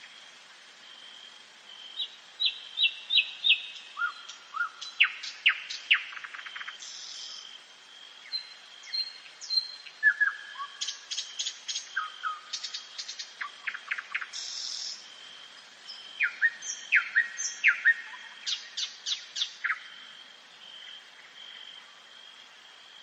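A nightingale singing three phrases of rapid repeated notes, sharp clicking strokes and quick trills, with short pauses between them. A faint steady high-pitched tone runs underneath.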